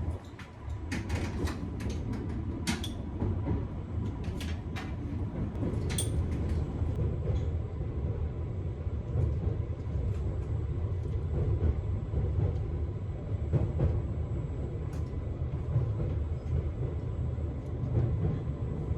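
Former London Underground District line train running, heard from inside the carriage: a steady low rumble with a series of sharp clicks and knocks in the first several seconds.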